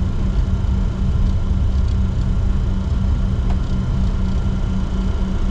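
Steady cockpit noise of a Bombardier Challenger 604 taxiing, its twin GE CF34-3B turbofans at low power. A dense low rumble runs under a pulsing hum and a few thin steady whines.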